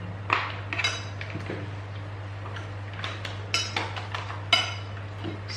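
Cutlery clinking against dishes: sharp, ringing clinks, a few about a second in and a cluster from about three seconds on. A steady low hum runs underneath.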